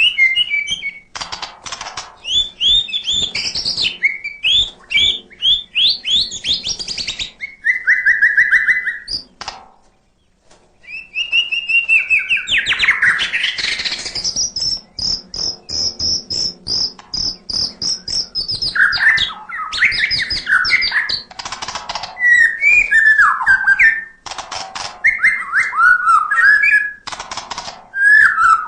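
Shama (murai batu) singing a full, varied song of clear whistles, rapid trills and rattling clicks, packed with mimicked calls. There is a short pause about ten seconds in.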